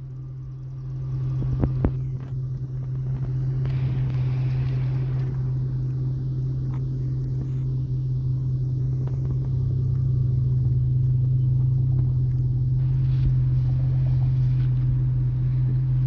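Steady low mechanical hum, an even droning tone like an engine or machine running at a constant speed, with a few sharp clicks about two seconds in.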